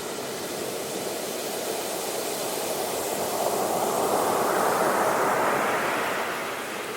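Sea waves washing ashore, one wave swelling up about halfway through and easing off near the end.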